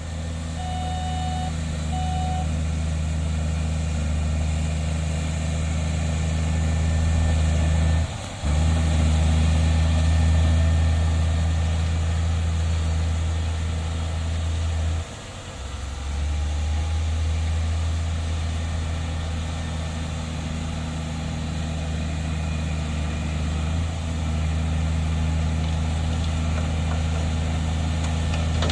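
Heavy diesel earthmoving machinery running with a steady low engine drone. Two short beeps sound in the first couple of seconds, and the engine sound dips briefly twice.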